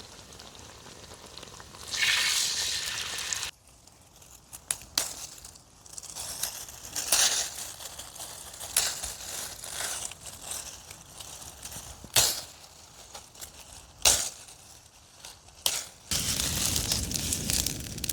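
Campfire cooking sounds in quick cuts: stretches of food frying and sizzling with crackling, broken by a series of sharp knocks.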